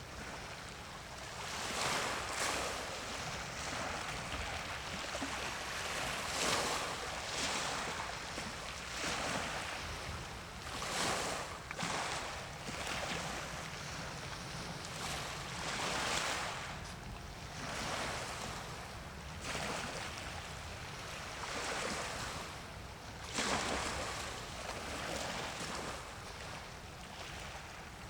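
Sea waves washing in, surging and falling back every couple of seconds, over a light wind hiss.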